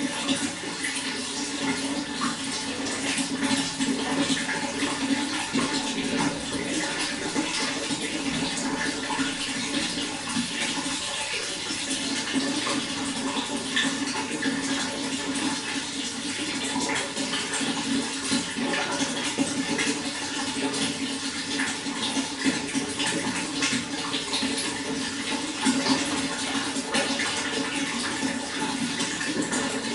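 Running water flowing steadily, with continuous splashing and trickling.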